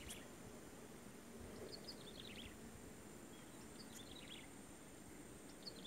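Faint outdoor ambience with a bird calling in short runs of quick falling chirps, about every two seconds, over a faint steady high tone.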